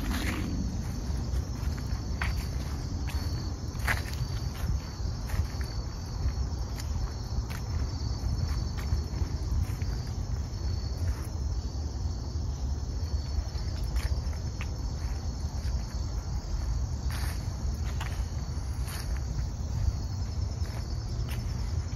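Insects trilling steadily in a high, fine-pulsed chorus, over a low steady rumble with scattered short clicks.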